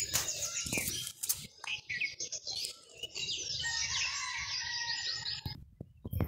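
Small songbirds chirping busily, in two spells: one at the start, dying down after about a second, and a longer one from about three seconds in that stops shortly before the end. A few sharp clicks and a low rumble sit underneath.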